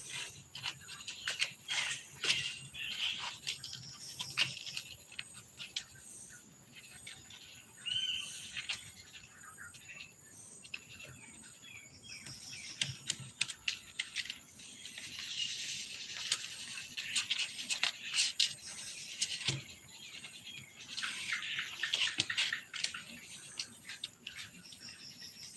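Birds chirping on and off, with scattered light clicks and taps.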